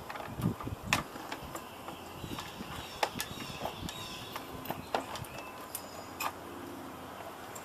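Irregular light clicks and knocks of hard drive and computer case parts being handled while a hard drive is fitted into a desktop case.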